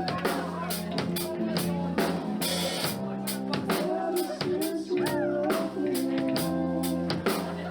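Live band playing a song: the drum kit keeps a steady beat under a bass line and held melodic notes.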